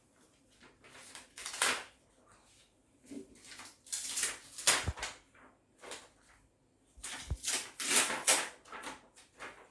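Paper cards being handled, rustling and scraping in several short bursts.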